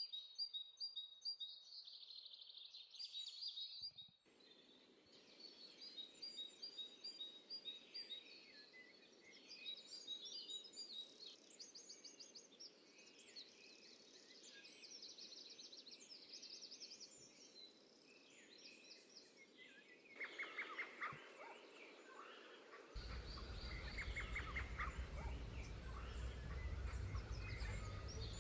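Several songbirds chirping and trilling over a quiet background. About two-thirds of the way through, the background changes abruptly and a steady low rumble joins the birdsong.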